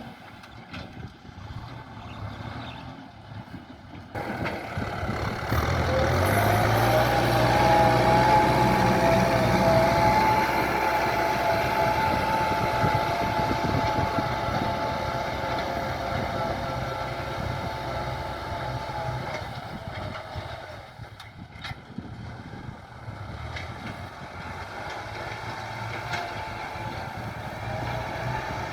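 Farm tractor's diesel engine working under load while ploughing. It gets louder about four seconds in, with the engine pitch rising as it revs up, runs steadily, dips briefly past the middle, then builds again.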